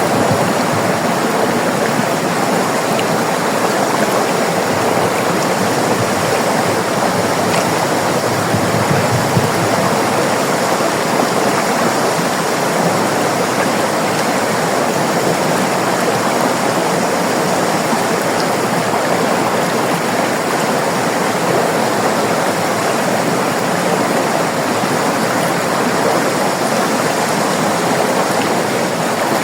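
River water rushing and splashing over rocks, a steady, even flow.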